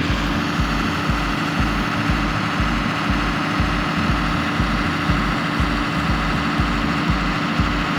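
Tractor engine idling with a steady, even chug of about four beats a second.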